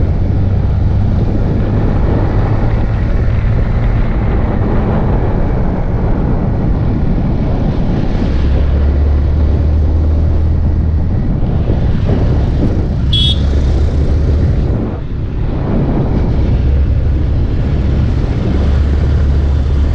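Yamaha MT-15 single-cylinder motorcycle being ridden, with the engine running and its low note shifting with the throttle every few seconds under heavy wind rush on the microphone. A brief high tone sounds about 13 seconds in.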